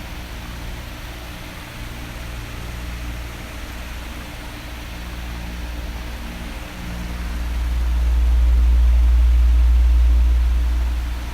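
Electric oscillating fan blowing: a steady airy whoosh over a low motor hum. The low rumble swells well louder about seven seconds in, holds, then falls away again near the end.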